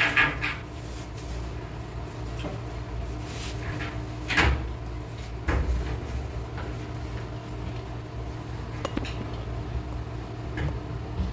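Work clatter of parts and tools being handled: a few knocks and bumps, the loudest about halfway through, then lighter clicks, over a steady low hum.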